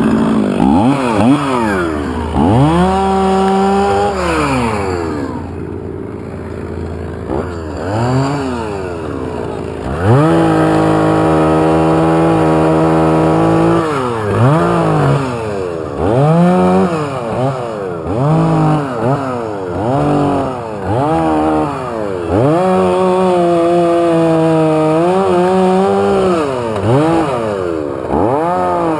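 Chainsaw revving over and over, each time climbing fast from idle to high speed and dropping back. It is held at high speed for a few seconds three times: about three seconds in, around the middle, and again near the end.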